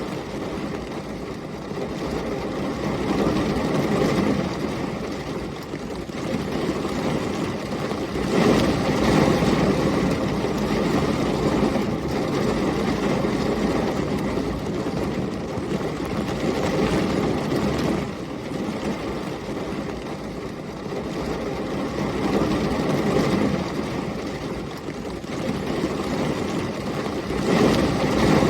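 Heavy rain with storm wind, a dense steady rushing that swells and eases every few seconds, loudest about nine seconds in and again near the end.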